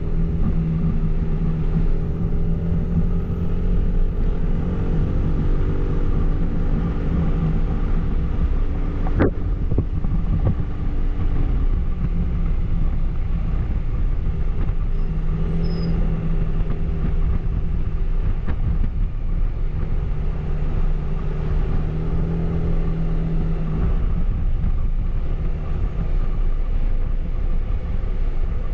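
Suzuki Burgman AN400 maxi-scooter's single-cylinder engine running through its stock exhaust while riding, with wind and road noise. The engine note rises and falls with the throttle, and there is one sharp click about nine seconds in.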